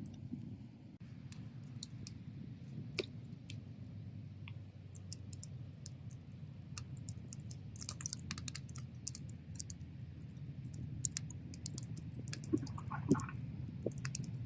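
Wood fire burning: irregular sharp crackles and pops over a low, steady rumble of flames.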